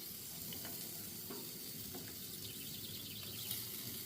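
Chicken legs sizzling as they cook: a steady frying hiss with faint scattered pops.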